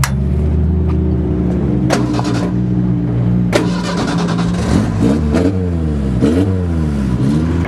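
Race car engines running with a steady low drone, then revving up and down several times in the second half. Two sharp clicks come in the first half.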